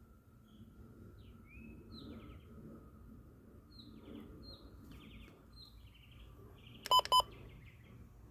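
Birds chirping in short, repeated calls over a faint steady hum and low background rumble. About seven seconds in, two short, loud electronic beeps sound in quick succession.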